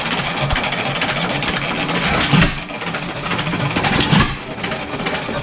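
7 hp Stickney hit-and-miss stationary engine running, at about 325 rpm by the owner's reckoning, with a steady mechanical clatter and two louder beats about two and a half and four seconds in.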